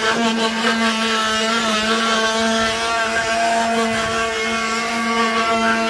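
Ox cart (carro de boi) singing: its wooden axle turning against the wooden bearing blocks gives one loud, steady droning note with a buzz of overtones, wavering slightly in pitch.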